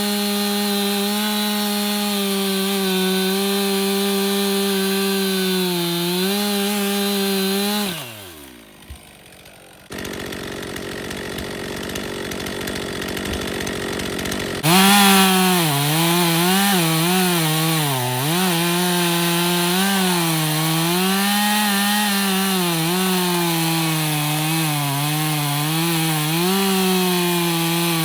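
Stihl MS362 M-Tronic two-stroke chainsaw running at high revs, steady for about eight seconds before the engine note falls away and stops, leaving a quieter hiss. About halfway through it is back at full throttle, its pitch repeatedly dipping and recovering as the chain cuts through wood.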